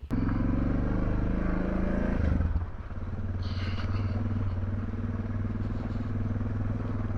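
Motorcycle engine running under way. Its note drops about two and a half seconds in, then holds steady and a little quieter.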